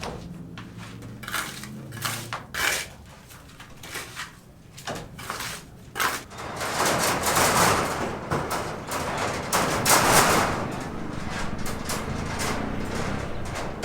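Construction-site work noise: scattered knocks and clatters, then from about six seconds in a continuous rasping, scraping noise that swells and fades.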